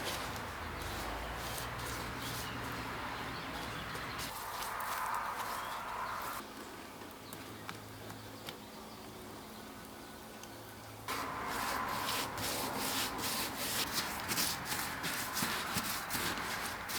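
Repeated scraping and rubbing strokes of a hand tool working refractory over the inside of a metal-melting furnace. The strokes pause for a few seconds about midway and then start again.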